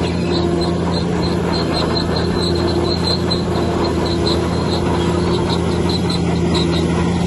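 Heavy diesel earthmoving machinery, a bulldozer, running at a steady engine speed, with a rapid series of short high-pitched squeaks, about three or four a second, over the engine's hum.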